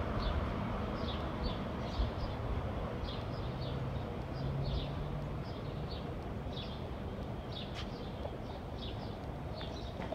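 A small bird chirping over and over, short high notes about twice a second, over steady outdoor background noise, with a low hum briefly in the middle.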